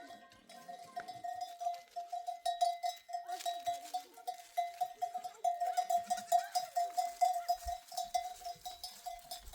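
A bell on a walking sheep or goat clanking in a quick, fairly even rhythm of several strikes a second, with faint bleats from the flock now and then.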